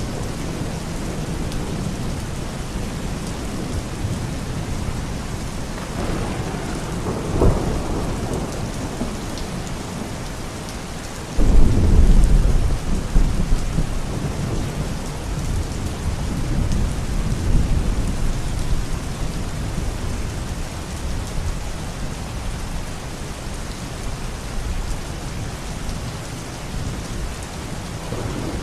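Steady rain falling, with thunder: a low rumble swells about a quarter of the way in, then a loud thunderclap breaks suddenly about 11 seconds in and rumbles away over several seconds.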